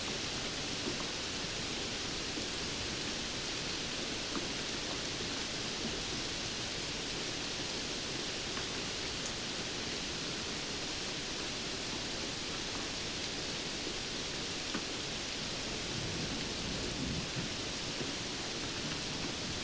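Steady rainfall: a dense, even hiss of rain, with faint scattered ticks of single drops.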